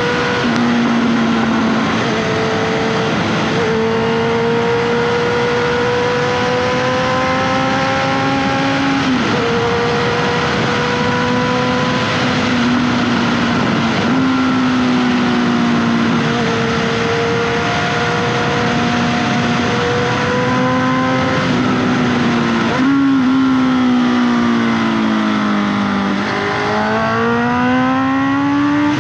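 Honda CBR650F's 649cc inline-four through an SC Project exhaust, pulling through the gears on the move: the engine note climbs steadily and drops sharply at several gear changes. Near the end the revs fall away for a few seconds, then climb again.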